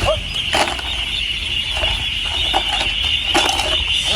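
A large flock of ducks calling all at once, a dense unbroken high chatter, with a few sharp knocks and a low engine hum underneath.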